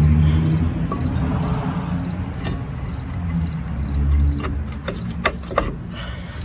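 A cricket chirping steadily, about two short chirps a second, over a low hum. In the second half, a few sharp metallic clicks as the brake caliper bracket is worked into place.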